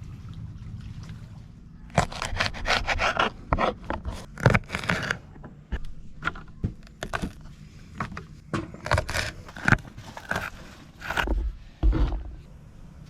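Irregular scraping, rustling and knocking as objects are handled, coming in dense clusters from about two seconds in and dying away near the end.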